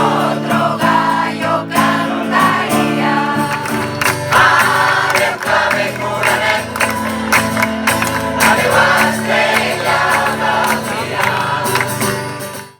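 A group of people singing a song together, fading out at the end.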